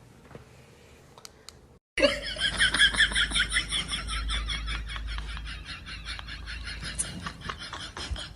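A person laughing hard in rapid, high-pitched bursts, starting suddenly about two seconds in and tapering off gradually.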